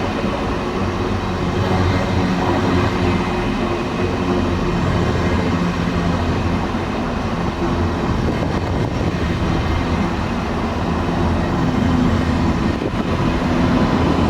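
Train at a railway station: a steady, loud rumble with a low, even hum throughout.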